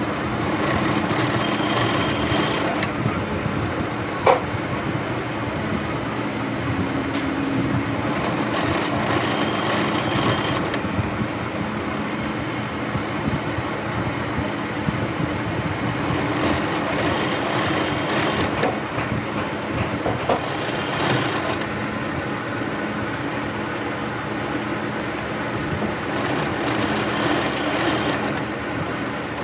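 Steady mechanical workshop noise. A high-pitched ringing squeal comes in for about two seconds roughly every eight seconds, and there is a single sharp click about four seconds in.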